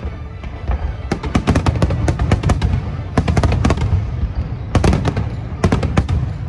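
Aerial fireworks going off in rapid clusters of sharp crackling reports over a continuous deep rumble of shell bursts, heard together with show music.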